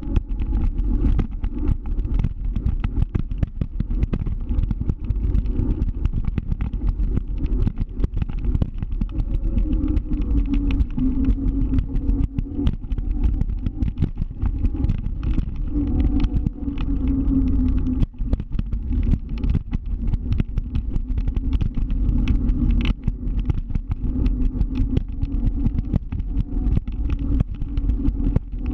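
Motor scooter running under way, its engine note climbing a little and growing stronger partway through, then easing off, over a low rumble with frequent short crackles.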